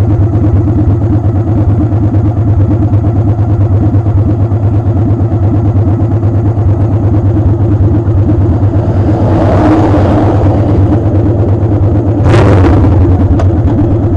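Motorcycle engine running steadily while riding, with wind rushing over the microphone; the rush swells about two thirds of the way in and gets louder and sharper about 12 seconds in.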